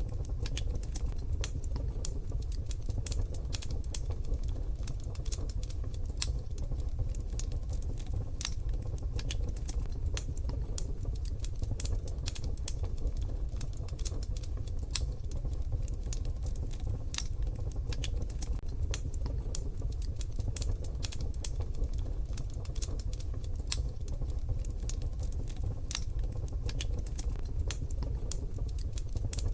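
Wood fire crackling in a wood-burning stove: irregular sharp pops and ticks scattered throughout over a steady low rumble.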